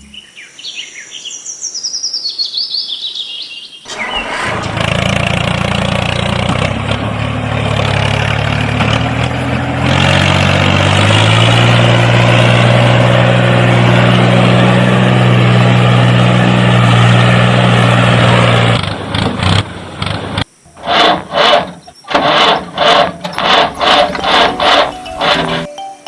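Tractor engine sound starting up and then running steadily, its pitch stepping up a few times. It is preceded by a short falling whistle-like glide, and near the end it gives way to a fast run of rhythmic knocks.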